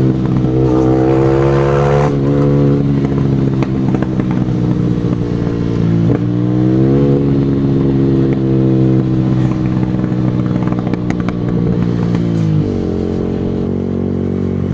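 Motorcycle engine being ridden hard. Its pitch climbs and steps between shifts about a second in and again around six to seven seconds, then drops sharply near the end as the rider backs off.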